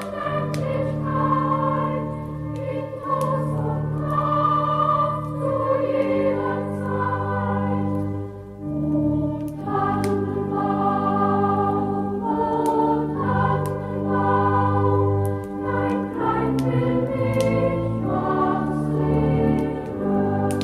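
A choir singing a slow Christmas song, with long held chords underneath.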